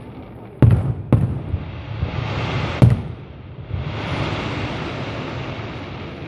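Fireworks display: three sharp bangs of bursting shells in the first three seconds, the first two half a second apart, then a long hiss that rises and slowly fades.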